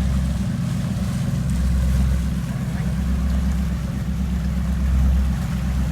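Engine running steadily: a low, even drone with a constant hiss over it.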